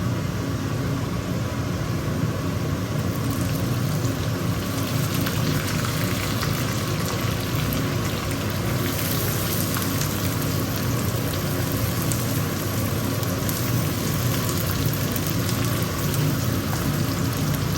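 Browned chopped onions sizzling and crackling steadily in hot white oil in a kadai, with a low steady hum underneath.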